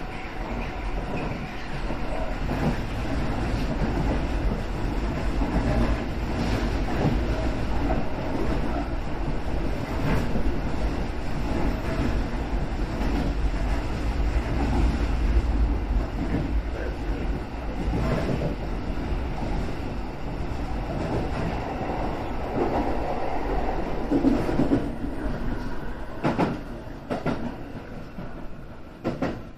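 JR West 225-series electric train running, heard from inside the train: a steady rumble of wheels on rail with occasional clicks. It grows quieter over the last few seconds.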